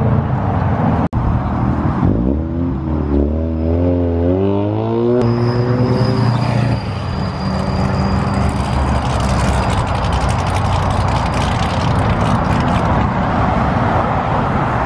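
A car engine revving, its pitch climbing with small dips over about three seconds and held high for a moment, then giving way to a steady rumble of car noise. A short break in the sound about a second in.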